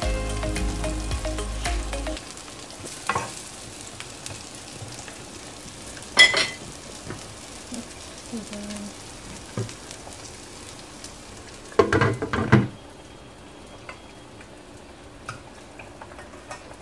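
Sliced sponge gourd sizzling in oil in a nonstick electric skillet, with scrapes and clinks of a spatula and fork on the pan. A sharp clink comes about six seconds in, and a short clatter about twelve seconds in as the glass lid is set on.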